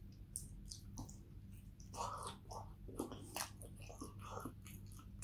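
Close-miked chewing of a mouthful of pizza, with irregular wet clicks and smacks of the mouth, over a steady low hum.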